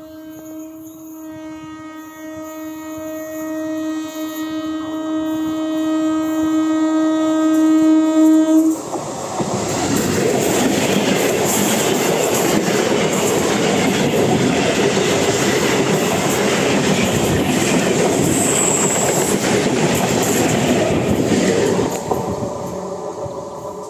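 Indian Railways EMU local train sounding one long, steady horn blast that grows louder as it approaches and cuts off about nine seconds in. The train then passes close at speed, its wheels rumbling and clattering over the rails, and the noise fades near the end as it goes by.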